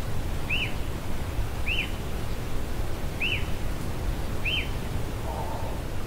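A forest bird repeating one short, arched whistled note four times, a little over a second apart, over a steady low background rumble. A short raspy call comes near the end.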